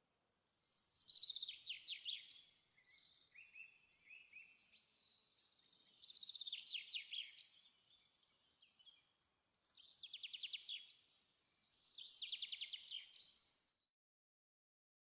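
A bird singing: four loud, rapid trilled phrases a few seconds apart, with softer notes between them. The sound cuts off sharply near the end.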